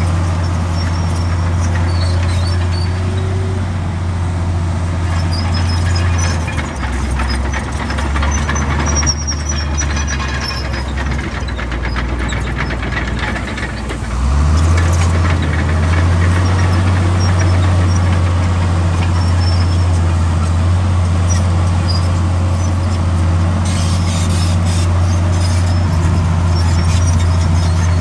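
Heavy diesel earthmoving machine running under load. The engine drops to a lower speed for about seven seconds midway, then picks back up with a jump, with faint high-pitched squeaks above the drone.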